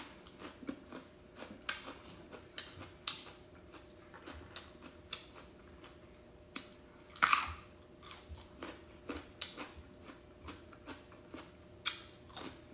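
A person chewing raw vegetables, herb leaves and radish, close to the microphone: a run of small wet clicks and crunches, with one louder crunching bite about seven seconds in and another near the end.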